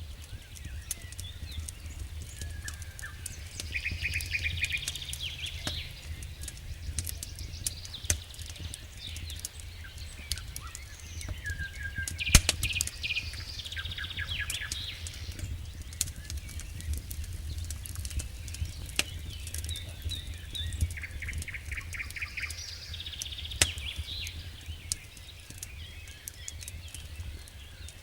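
Wood fire burning in a fireplace: a steady low rumble with irregular crackles and pops, one sharp pop about twelve seconds in. High chirping trills come three times, like birdsong.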